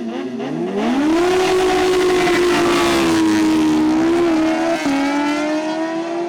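A high-revving superbike engine climbs quickly in pitch during the first second and then holds at high revs. About five seconds in, the pitch dips briefly and settles slightly lower, like a gear change.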